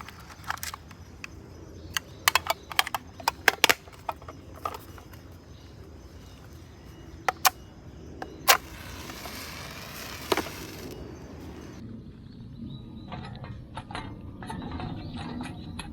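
Irregular sharp clicks and knocks of hard objects being handled, with a brief rustling hiss about halfway through. The last few seconds hold a duller low rumble with fainter ticks.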